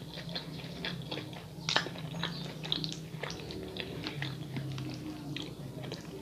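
Close-miked chewing of a crisp lettuce salad: wet crunching and small mouth clicks, irregular throughout, with a spoon clicking against the bowl now and then.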